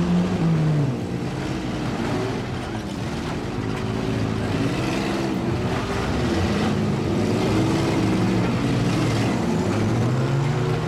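Engines of several demolition derby SUVs, minivans and mini trucks running together, revving up and down repeatedly as the vehicles maneuver.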